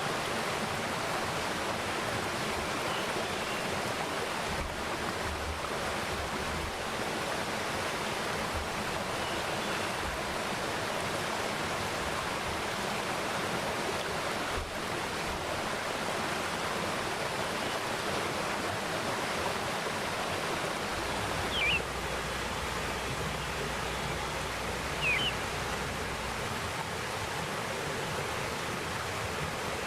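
Mountain stream running steadily over rocks, a constant rush of water. A bird gives two brief chirps in the second half, a few seconds apart.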